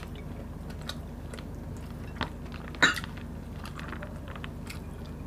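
Chewing and soft mouth clicks of people eating chicken adobo and rice with their hands, with one louder sharp sound a little under three seconds in.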